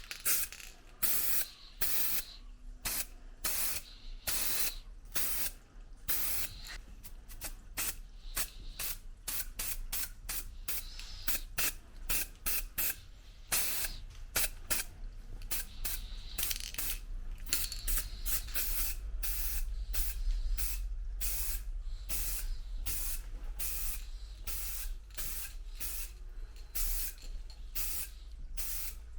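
Aerosol spray can giving many short hissing bursts in quick, uneven succession, over a faint steady low hum.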